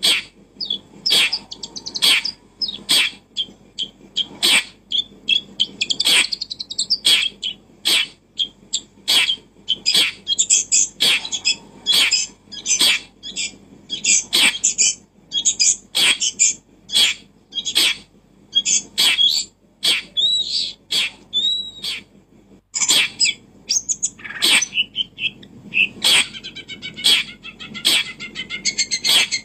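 A bird chirping and calling over and over, in quick sharp notes about two a second, with some gliding whistled calls.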